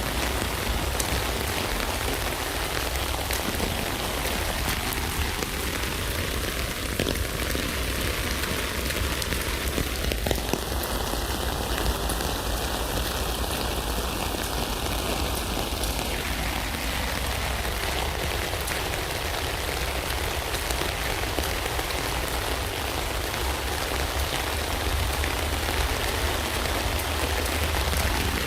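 Steady rain falling on a tent: an even hiss of rain with many separate drops ticking on the fabric, over a low rumble.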